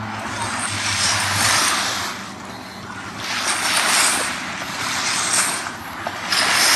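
Small sea waves washing onto the beach, the hiss swelling and fading about every two to three seconds. A low engine hum sounds under it for the first second and a half, then stops.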